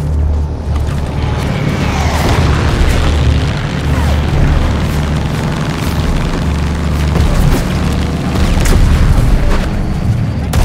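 War-film battle soundtrack for a WWII dive-bombing attack: a heavy continuous low rumble and booms of explosions and aircraft, with film music underneath. Gliding whines run through it a couple of seconds in, and sharp cracks of gunfire come in the later part.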